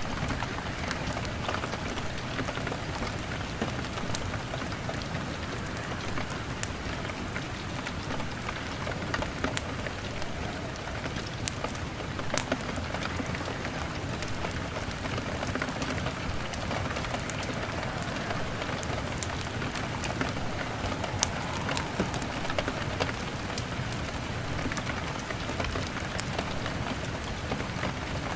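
Steady rain pattering on window glass, mixed with the scattered sharp pops and snaps of a crackling wood fire.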